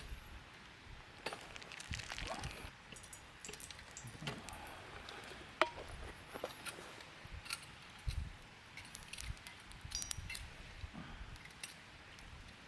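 Scattered light clinks, taps and rustles of small objects being handled, with one sharper click about five and a half seconds in.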